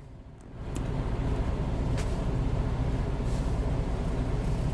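Truck engine idling: a steady low rumble heard from inside the cab, coming up about half a second in.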